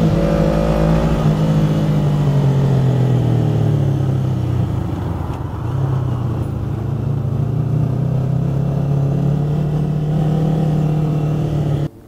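2007 Kawasaki Ninja 250's parallel-twin engine running steadily under way, heard from the rider's seat. It eases off briefly about five seconds in, picks back up, and cuts off abruptly near the end.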